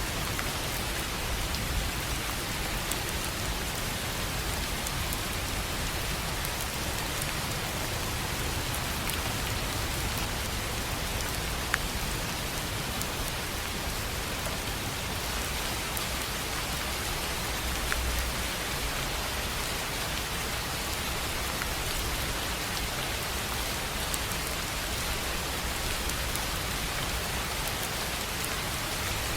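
Steady rain falling on a tin roof, a continuous patter with scattered sharper drop impacts, one louder tick about twelve seconds in.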